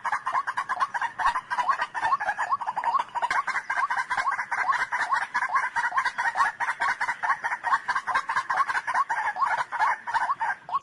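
White-breasted waterhen calling: a fast, unbroken run of short clucking notes, about five a second, which cuts off suddenly at the end.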